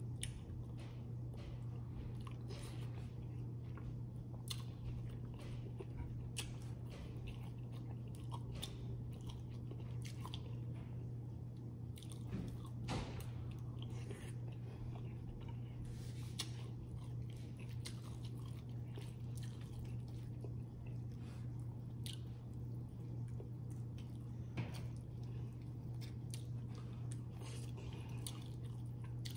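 A person chewing and biting food close to the microphone, with frequent wet mouth clicks and occasional crunches, over a steady low hum.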